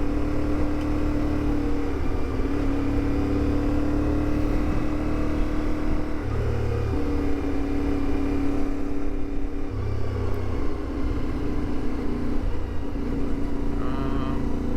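CFMoto 450MT adventure motorcycle's parallel-twin engine running at trail speed, its note dropping out and settling at a new pitch every few seconds as the rider changes throttle and gears.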